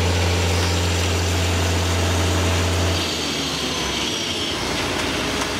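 Heavy concrete truck engine running steadily with a deep hum that drops away about three seconds in, leaving a lower rumble.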